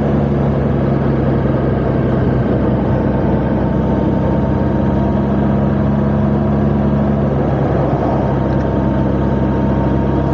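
Honda Gold Wing motorcycle engine running steadily at low speed, its pitch holding level with no revving.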